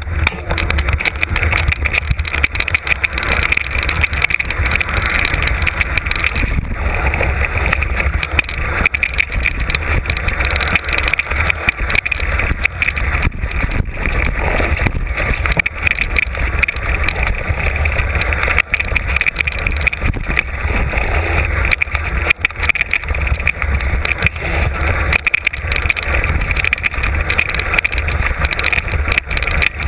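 Mountain bike running down a rough trail, heard from an on-board camera: a steady low wind rumble on the microphone under continuous rattling and knocking as the bike goes over the rough ground.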